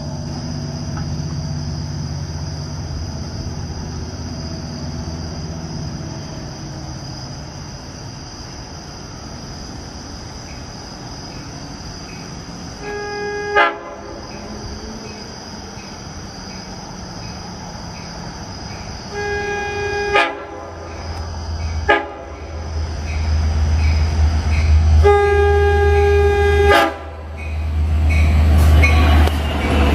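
An approaching Long Island Rail Road diesel train sounds its horn three times: a short blast, a longer one, then a long one. Its diesel locomotive engine rumbles louder as it draws near.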